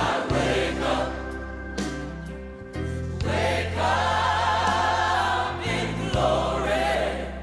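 Gospel vocal quartet singing in close harmony over instrumental backing with a steady bass line, with a long held chord sung with vibrato in the middle.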